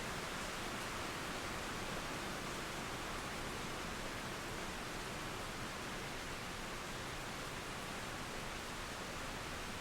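Steady rain falling on forest trees, blended with a flowing river, making an even, unbroken hiss.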